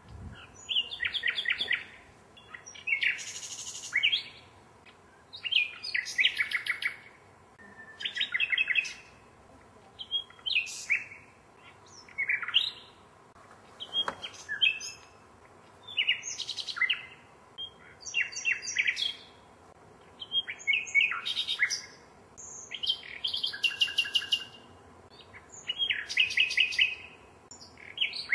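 Common nightingale singing: a run of short, varied phrases one after another with brief pauses between, many made of rapid repeated notes and trills, others of clear whistles.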